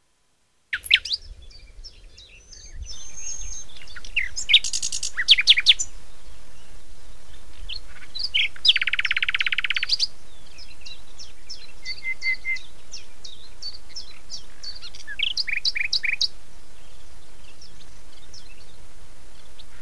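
Birds chirping and singing: many short, high chirps and quick trills, with a buzzy trill lasting about a second midway, over a steady faint hiss of outdoor background.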